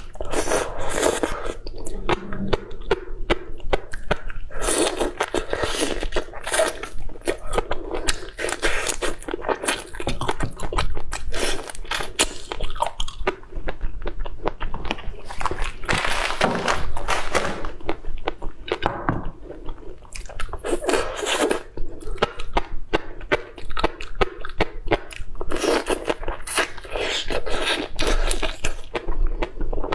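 Close-up eating sounds: a person chewing and crunching food, with many short crunches and bites following one another throughout.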